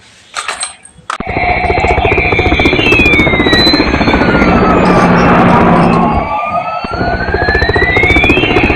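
Electronic sound effect from a battery-operated toy, switching on about a second in: a fast chopping helicopter-rotor sound with a siren wailing down and back up over it.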